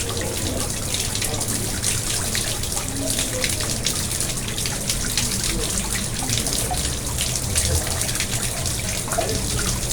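Pond water running and splashing steadily, with many small trickles and drips.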